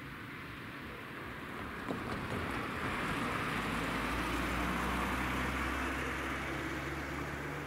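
A motor vehicle passing the crossing: engine and tyre noise swells to a peak about halfway through, with a low engine hum, then eases off. A single sharp knock about two seconds in.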